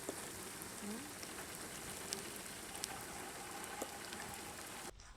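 Steady rain falling, with scattered louder drops tapping through it. The rain cuts off abruptly near the end.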